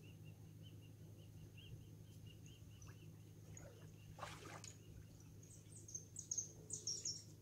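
Small birds chirping: a quick run of faint high chirps in the first few seconds, then louder, higher chirps near the end. Under them runs the steady low hum of a distant engine, which the speakers take for an old diesel motor, like a sand dredge's, left running, with a short swish about four seconds in.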